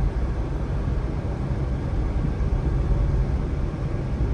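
Steady road and engine rumble of a car driving at speed along a highway.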